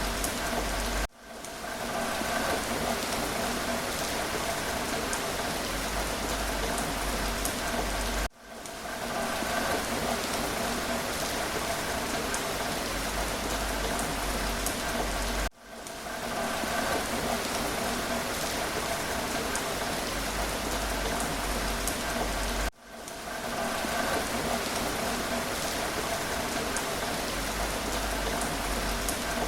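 Steady rain falling, with fine drop ticks through it. About every seven seconds the sound cuts out for a moment and fades back in, four times in all.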